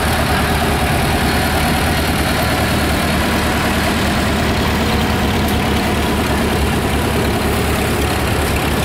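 Farm tractor engines running steadily at low speed.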